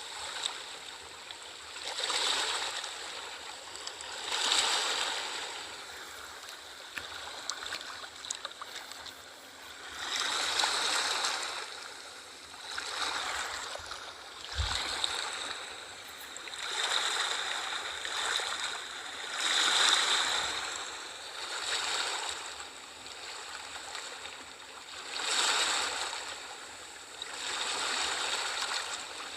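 Small waves washing in on a shore, a rushing swell about every two to three seconds that draws back between. A brief low thump about halfway through.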